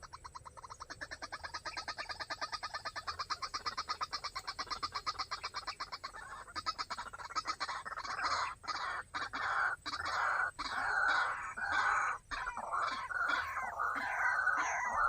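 White-breasted waterhen calling: a fast, even run of repeated notes that grows steadily louder, then from about halfway through loud, irregular repeated calls broken by short pauses.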